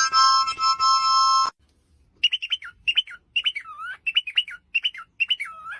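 Music with held notes cuts off about a second and a half in. Then a bird chirps about seven times in quick succession, each chirp a short whistle that dips and rises in pitch.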